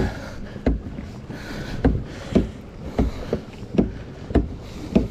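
Kayak being paddled by hand, with a knock or splash at each stroke about every half second to a second over a steady wash of water.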